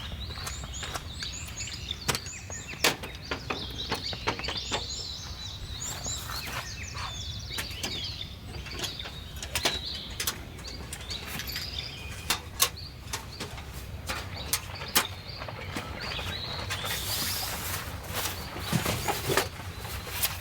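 Small birds chirping in the background, with scattered sharp clicks and knocks throughout and a brief hiss-like rustle near the end.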